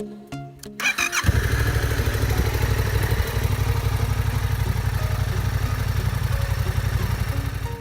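Yamaha MT-07's 689 cc parallel-twin engine cranked by its electric starter, catching about a second in and settling into a steady idle with a pulsing exhaust note. A few notes of background music are heard before it starts.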